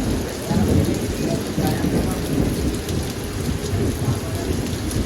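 Heavy rain falling, with a low rumble underneath that rises and falls.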